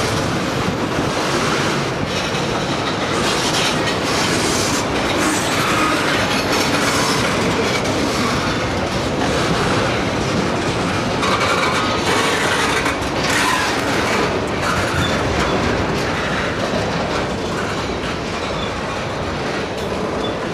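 Freight train of tank cars and covered hoppers rolling past close by, its steel wheels clattering steadily on the rails.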